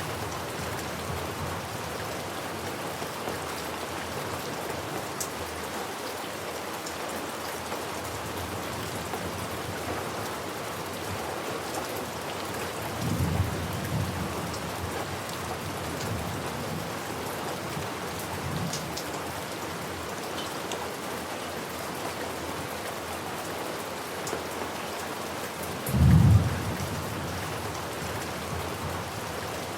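Steady rain falling, with low thunder rumbling through it: a moderate roll about halfway through and a louder, shorter clap-and-rumble near the end.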